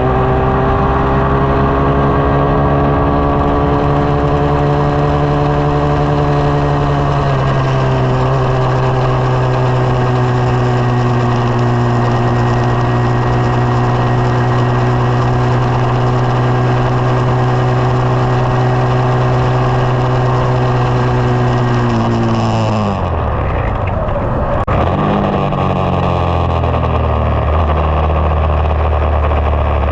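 SSR 189 dirt bike's single-cylinder four-stroke engine running steadily under way. Its note steps down about a quarter of the way in, falls away sharply about three-quarters through, then picks back up to a lower steady note.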